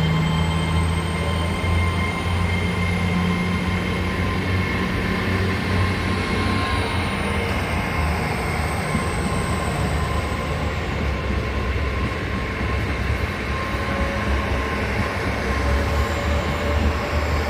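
GWR Class 800 bi-mode train running on its underfloor diesel engines: a steady low drone with a high thin whine that rises slowly, falls about seven seconds in and returns near the end.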